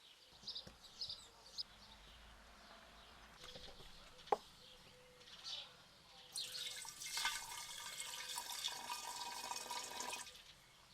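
Water running from a tap for about four seconds, starting a little over six seconds in. Before it come a few short bird chirps and a single sharp click.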